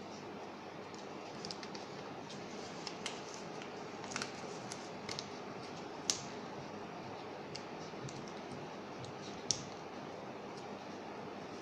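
A sheet of paper being folded and creased by hand: scattered short, sharp crinkles and taps over a steady background hiss, the loudest about six seconds in.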